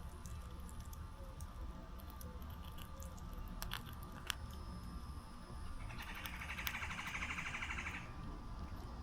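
A bird's rapid trill lasting about two seconds, near the end, with a couple of sharp clicks a few seconds before it over a faint low rumble.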